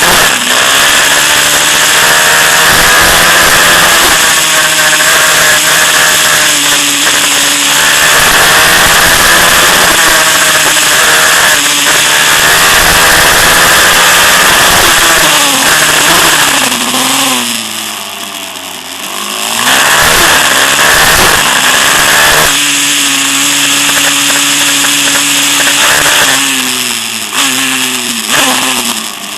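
Single-cylinder four-stroke 190cc pit bike engine revving hard, its pitch climbing and dropping again and again as it accelerates and shifts. It falls away briefly a little over halfway through and again near the end.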